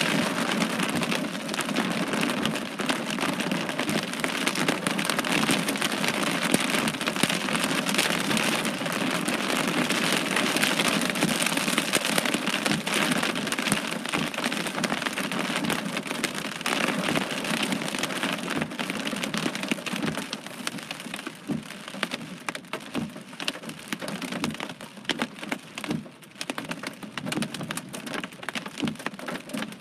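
Heavy thunderstorm rain with large drops pattering on a surface. The downpour is dense for the first two-thirds, then eases, with single drops heard more separately near the end.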